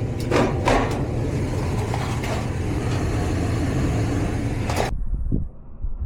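Gas furnace running with its burner lit and blower fan on: a steady rushing noise over a low hum, with a few clicks in the first second. About five seconds in it cuts off suddenly to a duller, quieter low hum.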